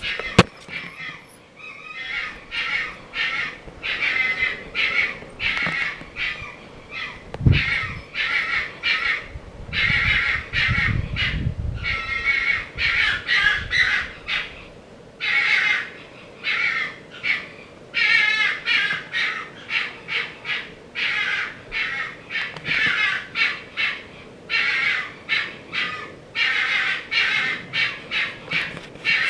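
A harsh, raspy animal call repeated over and over, short calls about one or two a second, with a low thump and a brief low rumble partway through.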